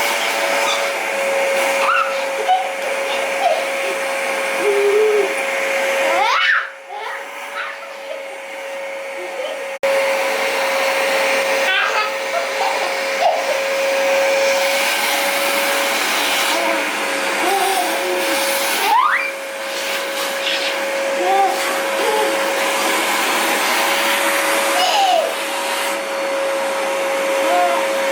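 Vacuum cleaner (hoover) running with a steady whine over its airflow noise. It goes noticeably quieter for about three seconds a quarter of the way in, then comes back to full level.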